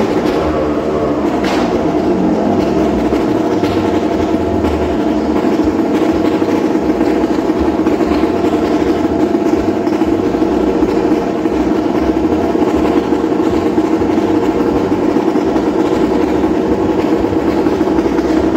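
Motorcycle engine running inside the wooden wall-of-death drum. Its pitch falls over the first couple of seconds as the rider eases off, then it runs steadily at a lower pitch.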